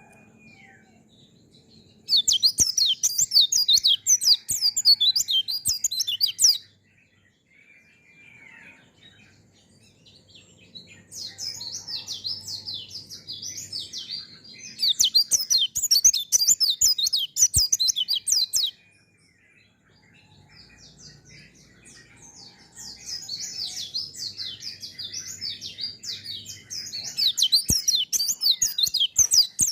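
White-eye (pleci) singing in three long bouts of rapid, high twittering chatter, with short quieter gaps of single calls between them.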